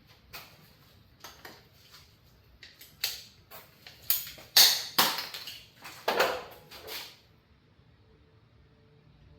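Tools and plumbing parts being handled during a water heater install: a run of clicks, knocks and scrapes, loudest in the middle, that stops about seven seconds in.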